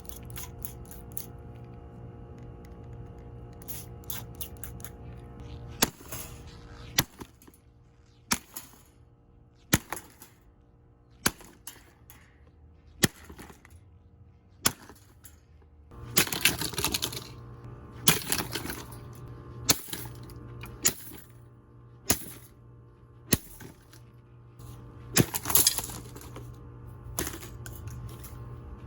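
A plastic Pelonis 16-inch table fan being smashed: sharp blows land every second or two, cracking and breaking its plastic parts. Longer crunching, rattling crashes come about halfway through and again near the end, over a steady low hum.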